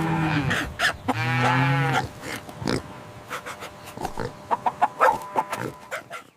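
Two long drawn-out farm-animal calls, the first ending just after the start and the second lasting about a second, followed by a string of short clicks and taps.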